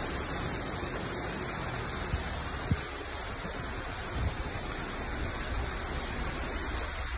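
Rain falling steadily: an even hiss, with a low rumble underneath and a couple of brief knocks about two to three seconds in.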